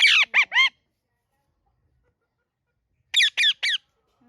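Pet green parrot screeching in two quick runs of shrill calls: about four at the start and four more about three seconds in, with silence between.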